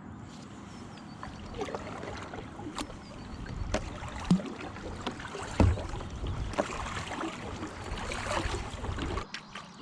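Kayak paddling on calm water: paddle blades splashing and dripping, with a few sharp knocks, the loudest about halfway through. The paddling stops a little before the end, as the kayak is left to drift.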